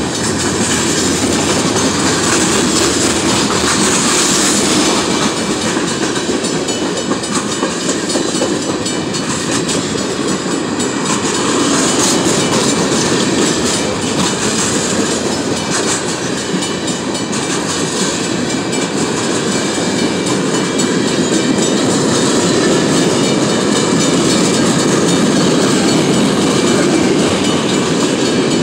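Freight cars of a manifest train, covered hoppers, tank cars and open hoppers, rolling past close by. Their steel wheels make a steady, loud rolling clatter on the rails.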